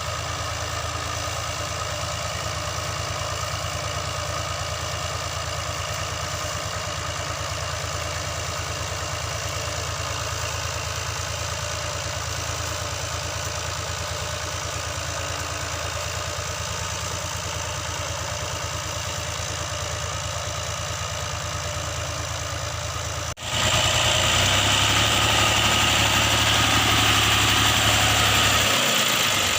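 Fiat 480 tractor's diesel engine running steadily at idle. About 23 seconds in, the sound cuts abruptly to a louder, harsher engine sound.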